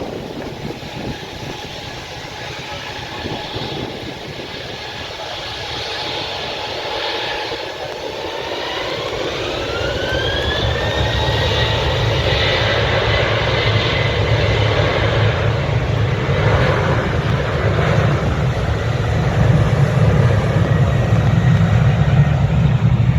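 Boeing 737's jet engines spooling up to takeoff thrust: a whine rises in pitch about nine seconds in and then holds steady, over a low rumble that grows steadily louder.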